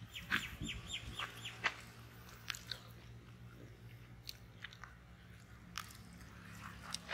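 A bird gives a quick run of about six short, falling chirps in the first second and a half. Scattered faint clicks follow over a steady low hum.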